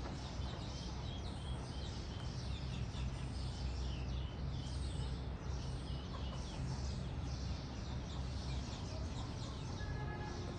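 Lovebirds chattering: a steady stream of rapid, high, overlapping chirps, over a steady low hum.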